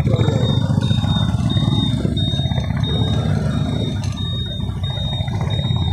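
Honda Activa scooter being ridden along a road: the steady drone of the engine and road noise at cruising speed, with a low rumble running underneath.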